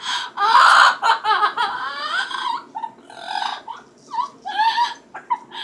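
Pet talking parrot making a run of loud, wavering, human-like vocal sounds, mimicking crying and laughter, loudest about half a second in and followed by several shorter calls.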